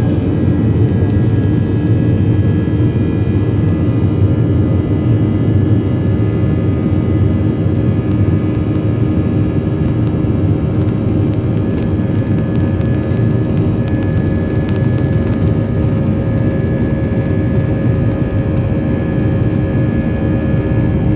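Airbus A320 jet engines running at high thrust during takeoff, heard inside the cabin: a loud, steady low rumble with several steady whining tones on top.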